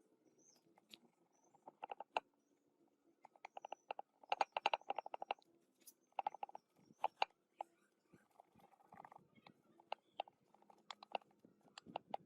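Irregular light clicks and taps, with a quick rattling run of them about four to five seconds in, from small hard parts or tools being handled.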